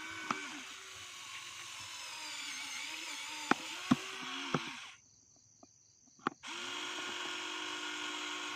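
Small electric motor and plastic gears of a toy truck whirring, with its pitch wavering as it runs; it stops about five seconds in and starts again about a second and a half later. A few sharp clicks and knocks come in the middle.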